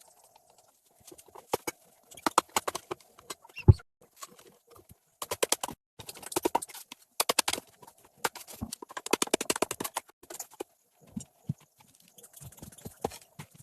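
Bursts of rapid clicking and knocking, with one heavier thump a little under four seconds in and sparser knocks near the end.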